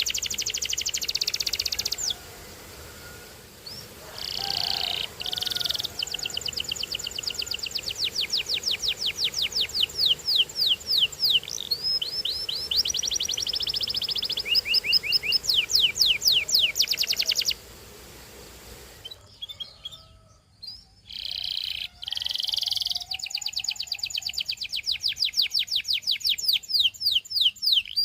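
Domestic canary singing: long, fast trills of repeated high sweeping notes that change pattern from tour to tour, broken by two short pauses.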